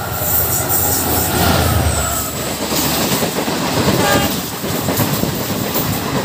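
Intercity express train passing at speed on the adjacent track: a loud, continuous rush of wheel clatter and rumble over the rails, with a short tone about four seconds in.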